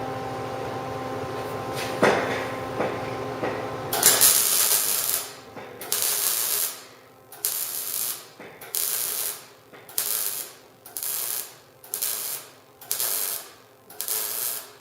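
MIG welder stitch welding a steel exhaust pipe: starting about four seconds in, about nine short bursts of welding crackle, each under a second, with brief pauses between them. Before that there is a steady machine hum and a sharp knock about two seconds in.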